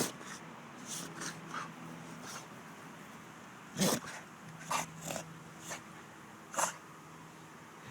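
Pit bull sneezing over and over in a sneeze fit: about eight short, sharp sneezes at uneven intervals, the loudest about four seconds in.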